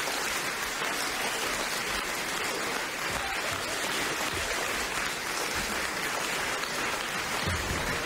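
Theatre audience applauding: a steady, dense patter of many hands clapping.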